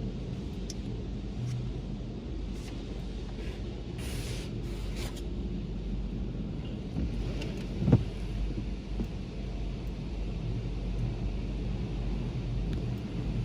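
Tunnel car wash heard from inside the car: a steady low rumble, a hiss about four to five seconds in, and a single thump about eight seconds in.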